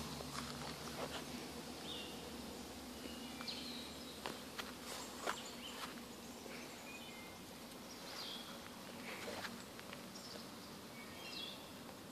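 Outdoor background of small birds chirping, short high calls every second or two, with scattered faint clicks and rustles of handling nearby.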